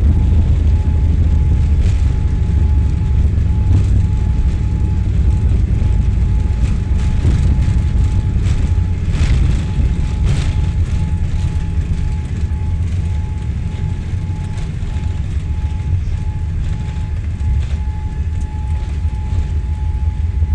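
Steady low rumble of an airliner heard from inside the cabin, with a faint steady high tone above it and a few light clicks. It eases a little in the second half.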